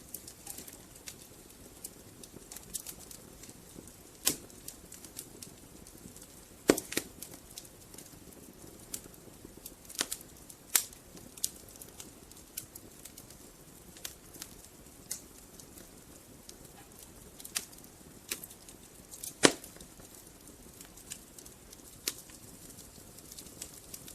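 Wood fire burning in a fireplace: logs crackling with irregular sharp pops over a faint steady hiss, the loudest pops about 4, 7, 10, 11 and 19 seconds in.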